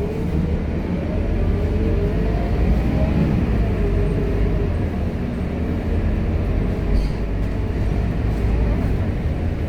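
Scania K230UB city bus heard from on board, its diesel engine and drivetrain running under way with a steady low rumble. A whine climbs in pitch over the first couple of seconds and falls away again about four seconds in.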